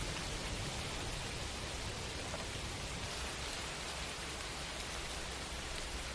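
Steady rain falling on hard city surfaces, an even hiss with faint scattered drop ticks.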